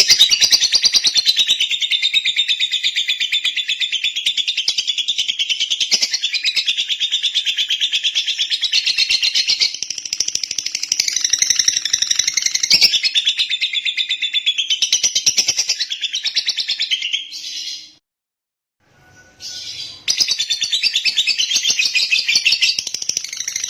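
Lovebird singing a long, rapid, continuous chattering trill. It breaks off about 18 seconds in and starts again about two seconds later.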